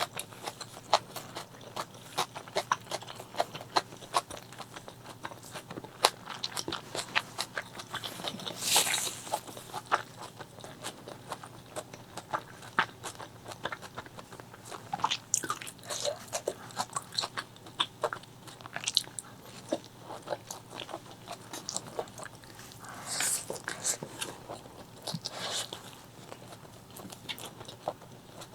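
Close-miked eating: a person chewing and biting a mouthful of spicy chicken liver, gizzard and rice, a steady run of wet clicks and crunches. Two louder, longer sounds break through, about a third of the way in and again near the end.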